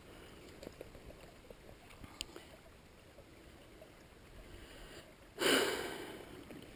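Quiet background with a few faint ticks, then, about five seconds in, one loud sniff through the nose that fades over about a second.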